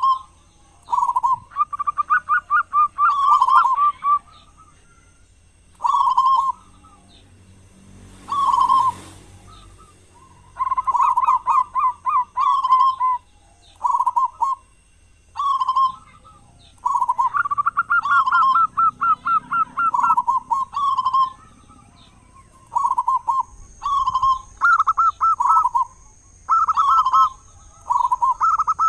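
Zebra dove cooing in repeated phrases: short low coos and longer rolling, rattling trills, with pauses of a second or two between phrases. A brief hiss is heard about eight seconds in.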